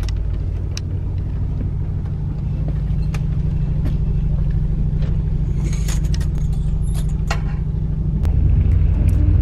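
Steady low rumble inside a sleeper train carriage, with scattered short clicks and rattles from the carriage fittings.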